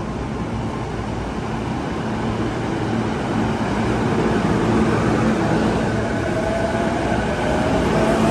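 E233 series 2000-subseries electric commuter train pulling away from a station platform and picking up speed, its running noise growing louder. About six seconds in, a rising whine from the traction motors comes up over the rumble.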